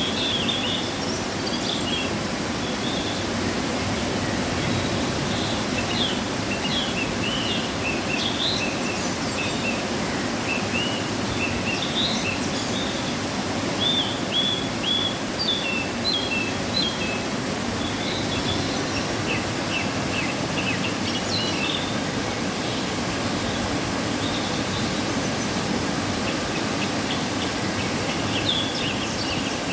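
Waterfall running after rain: a steady, even rush of falling water. Small birds chirp over it in short repeated notes throughout, busiest in the first second, around 7–10 s and 12–17 s, and near the end.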